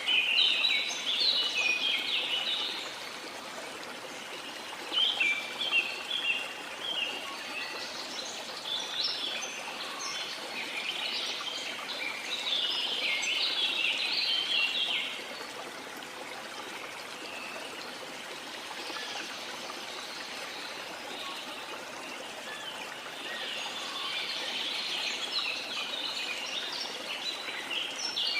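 Steady rush of falling water, with tropical forest birds singing in busy bursts of rapid chirps over it. The birds are loudest at the start, from about 8 to 15 seconds in, and again near the end; in between, mostly the water is heard.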